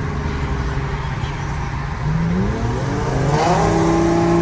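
Straight-piped Infiniti G37's 3.7-litre V6, its muffler deleted, under way: a steady engine note, then about two seconds in it revs up, the pitch climbing for a second or so before settling into a louder, higher steady drone.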